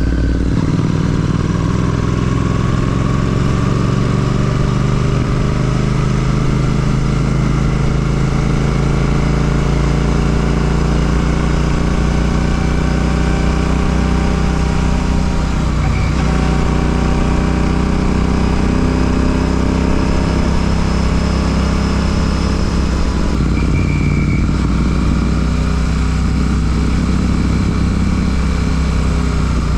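Royal Enfield Classic 650's parallel-twin engine running through an Ngage aftermarket exhaust while riding. The note climbs slowly, breaks briefly about halfway, and changes again about three quarters of the way through.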